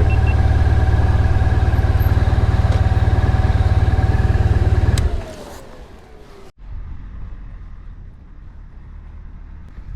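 Honda VFR1200X Crosstourer's V4 engine running steadily with a low hum and a steady whine, then cut off suddenly about five seconds in, the whine falling away in pitch afterwards. A quieter low rumble follows for the rest of the time.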